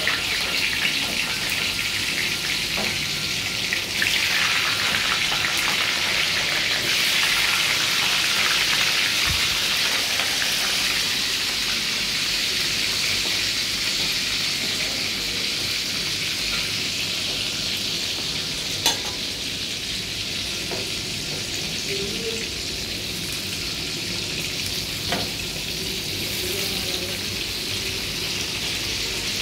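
Tofu cubes frying in hot oil in a wok: a steady sizzling hiss, strongest in the first dozen seconds and easing a little after, with a few sharp clicks.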